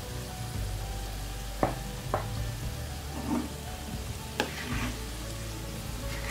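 Whole amla (Indian gooseberries) and spices frying in hot mustard oil in a non-stick wok, with a steady sizzle as they are stirred with a wooden spoon. The spoon knocks against the pan about four times, the loudest about a second and a half in and just past the middle.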